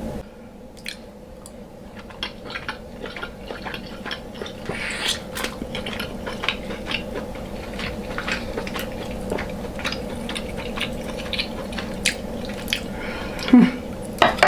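Close-miked wet chewing and lip smacking of saucy deshelled seafood boil, a dense run of short sticky clicks and squishes.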